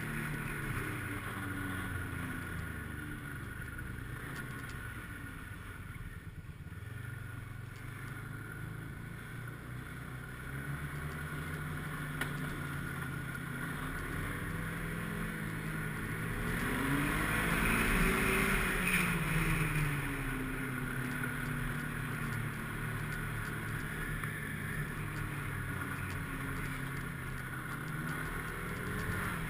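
Snowmobile engine running under way. Its pitch and loudness climb as the throttle opens about two-thirds of the way through, then ease back down.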